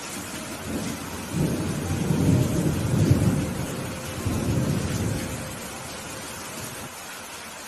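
Steady rain falling, with a roll of thunder that builds about a second and a half in, rumbles for several seconds and fades away.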